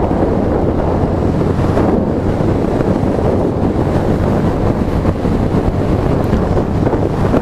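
Steady wind rush on the microphone while riding a TVS Star City Plus 110 cc single-cylinder motorcycle at a constant cruising speed, with the engine's low steady drone underneath.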